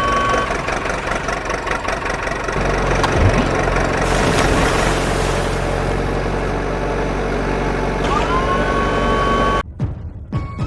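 Vehicle engine sound effect running steadily, heavier from about two and a half seconds in, with a short rising tone about eight seconds in; it cuts off suddenly shortly before the end.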